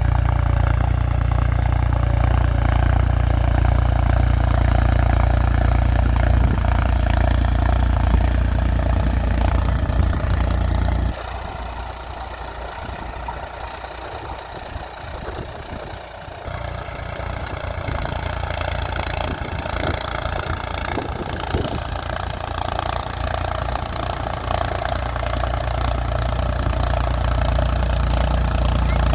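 Mahindra 275 DI TU tractor's 39 hp diesel engine running with a rotavator, a steady low engine drone. It drops suddenly in loudness about eleven seconds in, then gradually grows louder again.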